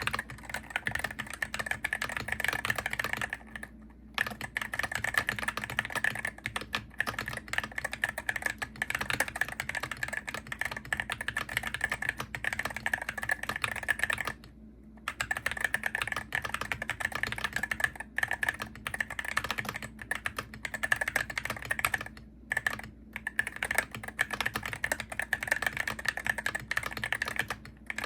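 Fast, continuous typing on a Hero68HE gaming keyboard, keystrokes clacking in quick runs, with short pauses about four seconds in, around fifteen seconds in and around twenty-two seconds in.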